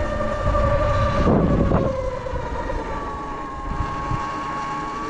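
Sur Ron electric dirt bike's motor whining steadily as it rides, with wind rushing on the microphone. A brief louder rush of noise comes about a second and a half in, and the whine then eases slightly lower in pitch.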